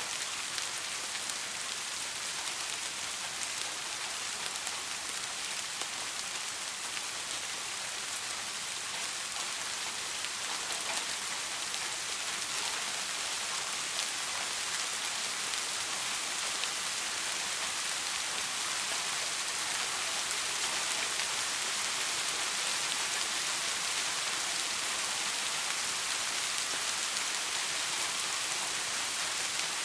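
Steady soft rain falling on a surface, an even hiss with scattered drop ticks and no thunder.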